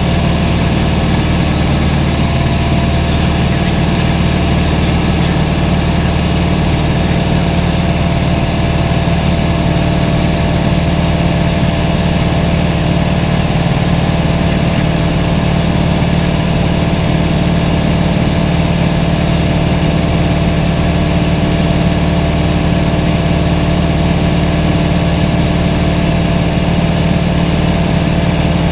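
Propeller aircraft engine noise heard from inside the cabin in cruise: a loud, steady drone with a constant hum of fixed tones.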